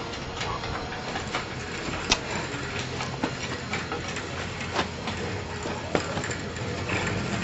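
Scattered metallic clanks and knocks, irregularly spaced, over a steady background hum, as a hot rod's engine is jacked up and worked past the frame for clearance.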